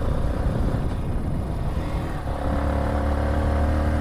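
Vehicle engine running on the move, with road and wind rumble. A steady engine drone comes up about two and a half seconds in.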